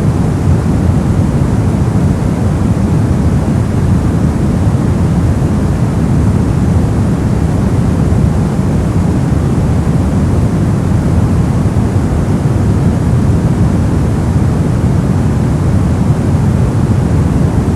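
Continuous white noise playing as a steady ambient masking sound, weighted toward the low end so it comes across as a deep, even rush with no change.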